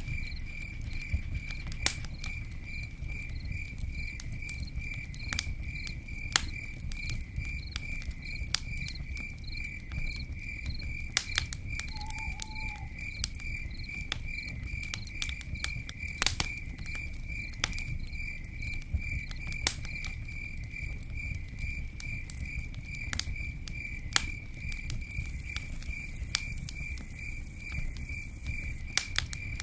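A campfire crackling, with sharp irregular pops over a low steady rumble. Through it, an insect chirps steadily at about two or three chirps a second.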